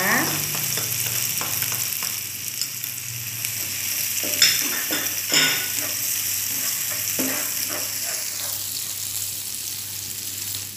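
Sliced garlic, chillies and shallots sizzling in hot oil in a nonstick frying pan, stirred with a plastic slotted spatula that scrapes and knocks against the pan a couple of times, about four and five seconds in. The sizzle thins out near the end.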